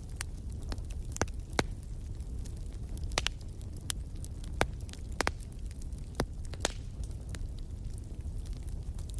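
Wood fire burning in a fireplace: a steady low rumble of flame with irregular sharp crackles and pops from the burning wood, a few standing out louder.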